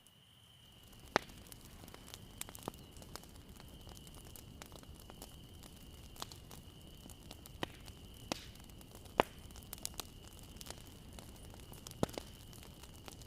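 Wood fire crackling: sharp pops scattered every second or two over a steady soft hiss, with a faint steady high tone underneath.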